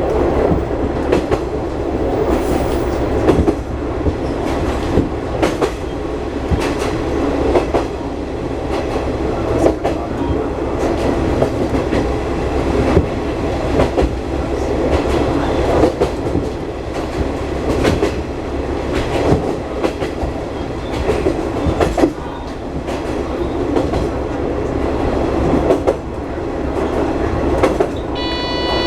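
Diesel railcar running along the line: a steady engine hum and rolling noise, with the wheels clacking over rail joints every second or so. Near the end a short electronic beep sounds.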